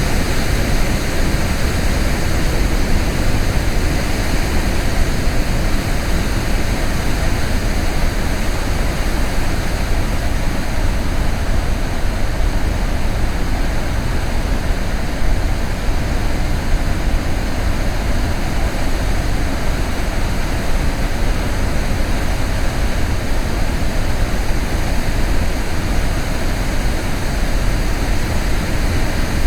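Waterfall: loud, steady rushing of falling water that does not change.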